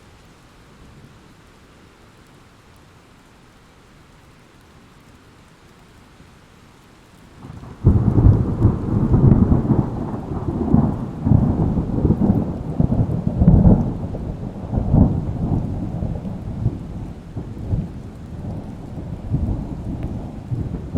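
Thunderstorm: steady rain hiss, then about eight seconds in a sudden loud thunderclap that rolls on as a long rumbling peal, slowly fading.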